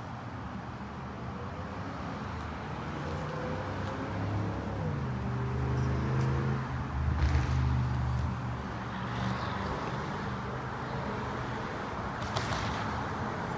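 Outdoor traffic: a motor vehicle's engine passes, its pitch rising about a third of the way in and loudest near the middle, over a steady hum of road noise.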